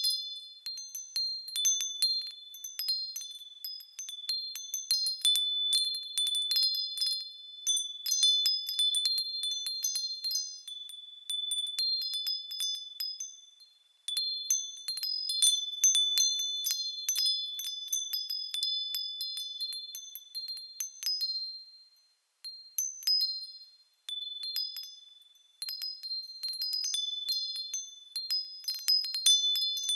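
Small bells swaying and ringing in irregular, overlapping clusters of high, clear tones, like a wind chime. The ringing dies away briefly about halfway through and again about two-thirds of the way in before starting up again.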